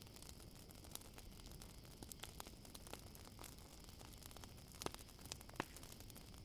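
Campfire crackling softly: scattered small pops and snaps of burning wood, two louder pops near the end, over a faint steady chirring of crickets.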